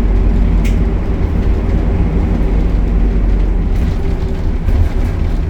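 Optare Solo bus's Euro 5 diesel engine running steadily with a deep, even drone, with a brief click about half a second in.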